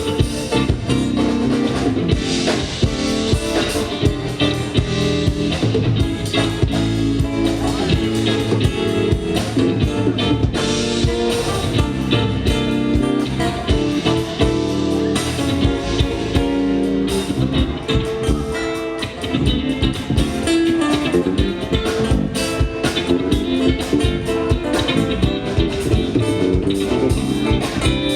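Live band music with guitar over a steady drum beat.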